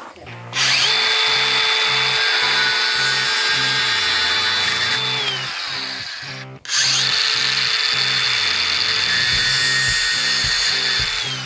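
Power drill run twice, about four and a half seconds each: the motor whine winds up, holds steady, then winds down. Background music with a steady beat plays underneath.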